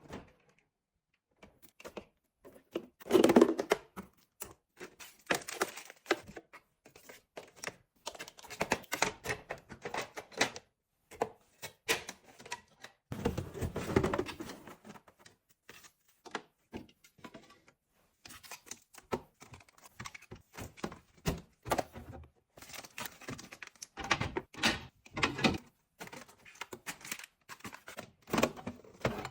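Busy handling of things in and around a fridge: a steady run of clicks, knocks and thunks as containers and food are moved, with two longer, louder stretches about three and thirteen seconds in.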